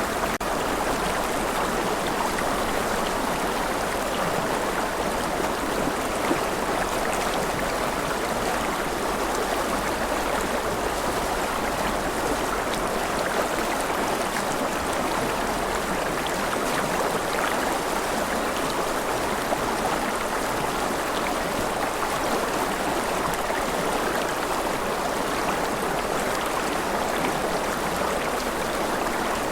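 Steady rushing water: an even hiss that never pauses or changes.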